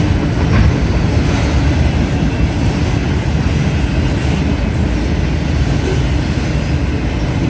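Autorack freight cars rolling past on the rails: a steady, loud rumble of steel wheels on track.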